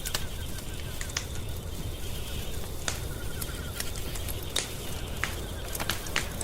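Wood fire crackling: a low steady rumble with sharp pops about once a second. A faint rapid trill pulses in the background in places.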